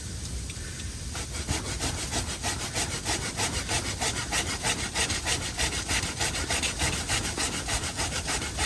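A hand saw cutting through a wooden log with steady, even back-and-forth strokes, starting about a second in.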